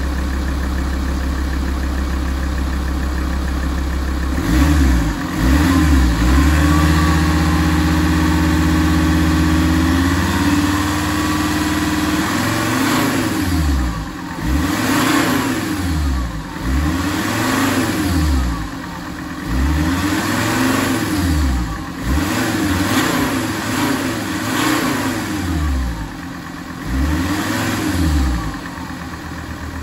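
Alfa Romeo 166 2.4 JTDm five-cylinder turbodiesel revved while stationary. It idles, is blipped twice, held at raised revs for a few seconds, then revved up and let fall back about every two seconds, and returns to idle near the end.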